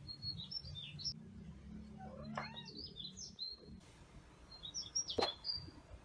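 A songbird singing loud, quick warbling phrases in three bursts. A single sharp click comes about five seconds in.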